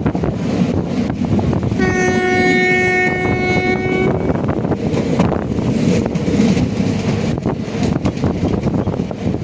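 A train horn sounds once for about two seconds, a little after the start, over the steady rumble and clatter of a passenger train's wheels on the rails, heard from inside the moving coach.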